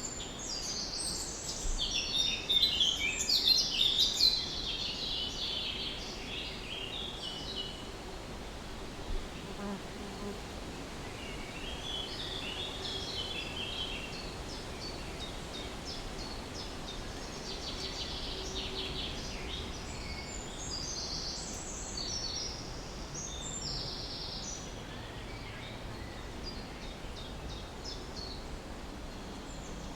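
Several songbirds chirping and singing in quick high phrases, with the busiest and loudest run of chirps in the first few seconds and further bouts later, over a steady outdoor hiss. A faint steady hum runs beneath the birdsong through the middle.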